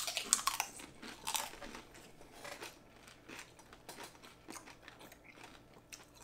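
Two people biting into and chewing tortilla chips topped with shrimp ceviche: crisp crunching, loudest and densest in the first second and a half, then softer, scattered chewing crunches.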